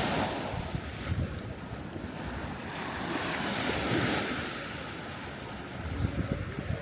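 Ocean surf washing in, swelling to a peak about four seconds in and then easing, with wind buffeting the microphone.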